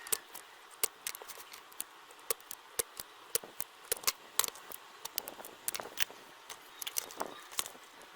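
Irregular sharp clicks and taps, a few each second: small hand tools and parts being handled during electronics bench work.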